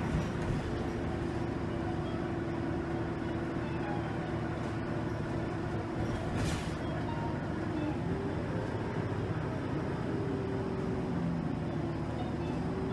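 Interior of a motor coach bus in motion: a steady engine and road drone with a whine that holds one pitch, then rises and wavers after about eight seconds as the bus changes speed. A short hiss about six and a half seconds in.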